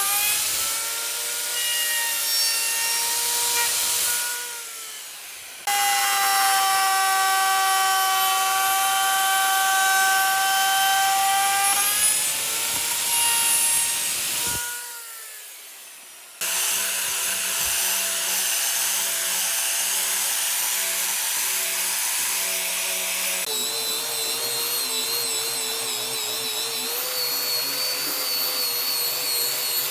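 Electric power tool running and working wood, a steady whine whose pitch dips and wavers as the load changes. It dies away twice and cuts back in abruptly.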